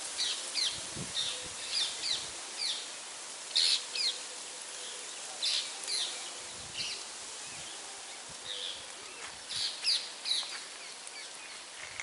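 Birds chirping: short, high calls that come irregularly, some in quick pairs, over a steady background hiss.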